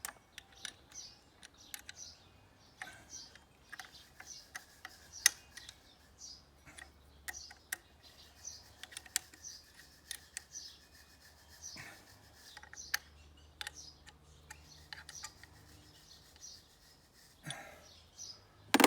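Scattered metallic clicks and taps of a 10 mm wrench tightening bolts, the loudest about five seconds in. Small birds chirp repeatedly in the background throughout.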